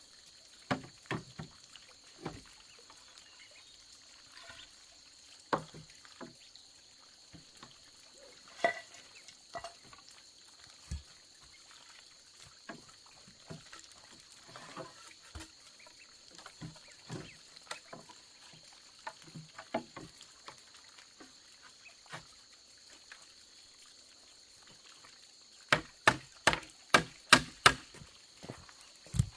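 Scattered knocks and taps of wood or bamboo being handled and struck, ending in a quick run of about eight sharp strikes. A faint steady high hiss lies underneath.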